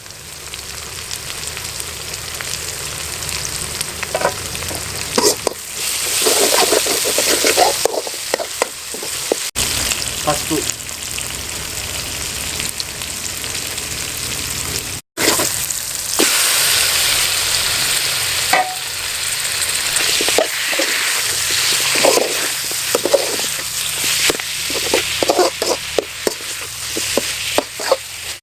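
Onions, tomatoes and spices frying in hot oil in a pan, sizzling steadily while a spatula stirs and scrapes in short repeated strokes. The sound cuts out briefly about fifteen seconds in.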